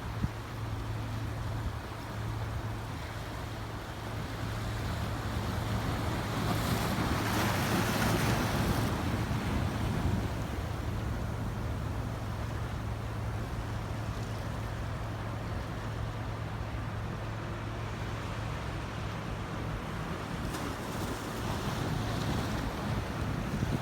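Ocean waves washing in against rocks, swelling loudest about seven seconds in and again near the end, over a steady low hum.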